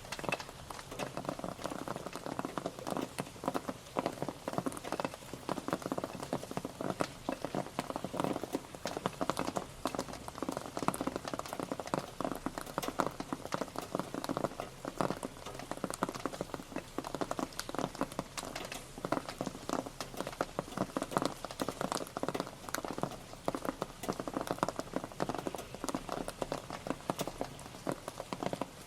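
Steady rain pattering, a dense, irregular scatter of drops striking a surface.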